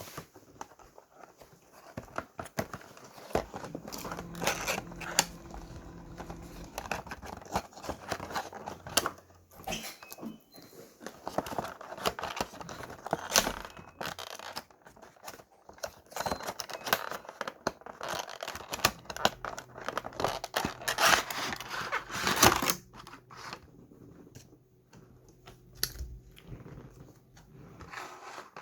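Crinkling and tearing, like packaging being handled and torn open, with many scattered clicks and knocks.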